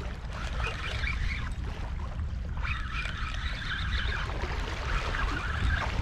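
Wind buffeting the microphone as a steady low rumble, with three stretches of higher hissing noise in the first second or so, from about three to four seconds in, and near the end.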